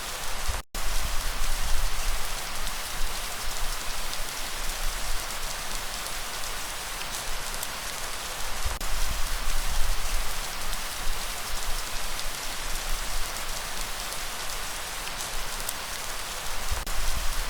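Steady rain falling, a dense even hiss with scattered drop ticks and a low rumble underneath. The sound cuts out completely for an instant about a second in, then resumes.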